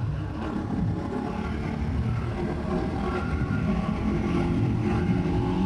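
Bajaj Pulsar NS200's single-cylinder engine running at a steady cruising speed while riding, with heavy wind rumble on the microphone.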